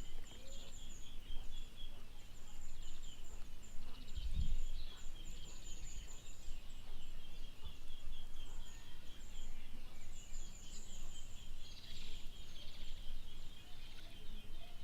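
A steady outdoor chorus of rapid, high chirping from small creatures, with a brief low thump about four seconds in.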